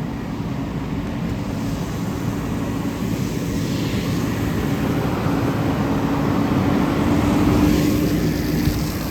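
Fire engine running with a steady engine drone under a broad rushing noise that slowly swells, peaking shortly before the end.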